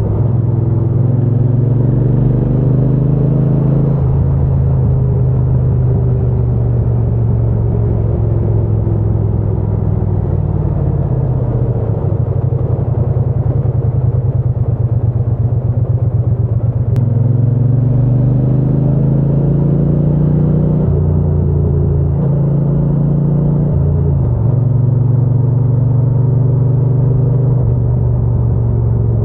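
Triumph Bonneville T120 parallel-twin engine and exhaust under way on the road: the note climbs under throttle and drops sharply at each gear change, about four seconds in and again near twenty-one seconds, and eases off and falls in pitch in between, with wind rush underneath.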